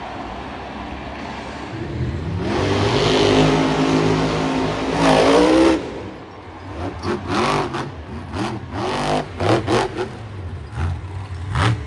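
Monster truck engine revving: a steady low rumble, then a long rising rev about two seconds in that peaks and cuts off near six seconds, followed by a series of short, sharp throttle blips.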